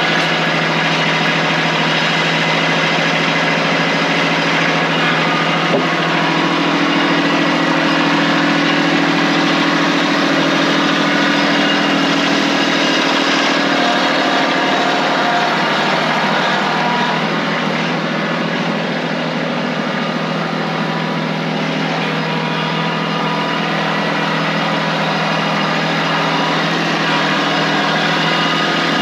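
Kubota tractor engine running steadily.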